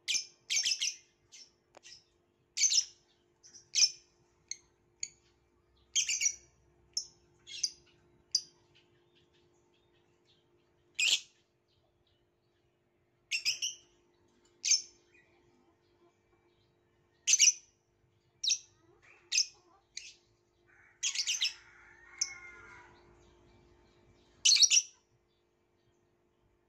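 Violet lovebird giving short, high-pitched chirps one at a time with irregular pauses between them. About three quarters of the way through it breaks into a softer, lower chattering warble.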